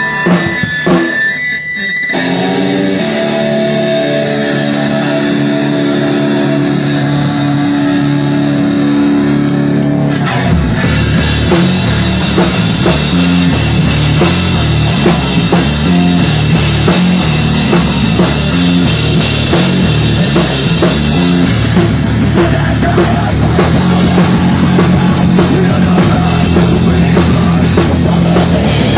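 Live rock/thrash band playing: a guitar intro of held chords, then the full band with drums and distorted guitar comes in loudly about ten seconds in.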